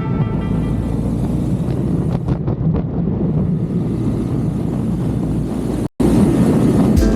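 Motorcycle running with wind rushing over the microphone, a steady low rumble. The sound cuts out for a moment about six seconds in.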